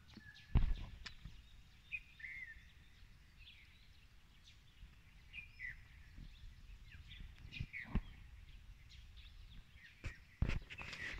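Small birds chirping now and then over quiet forest ambience, with a few dull thumps, the loudest about half a second in and another near the end.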